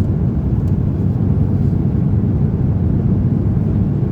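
Steady low rumble of cabin noise inside an Airbus A350-900 in flight, from airflow and engine drone.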